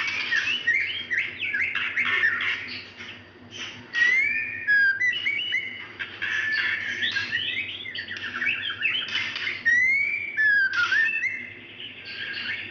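Female white-rumped shama calling to a male in a rapid, varied run of whistles, chirps and harsh notes, with clear rising whistled glides, broken by short pauses.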